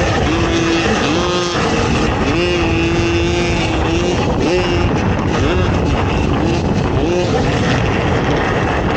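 ATV engine racing over an off-road course, revving up and dropping back again and again, held at a steady high pitch for a second or so partway through.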